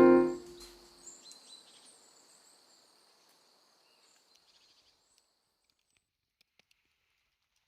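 Piano music cuts off in the first half second. Faint outdoor ambience with high-pitched chirping and a few soft clicks follows and dies away within a few seconds, then near silence.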